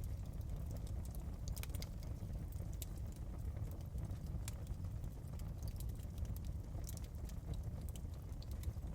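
Fireplace ambience: a wood fire crackling with irregular sharp pops and snaps over a steady low rumble.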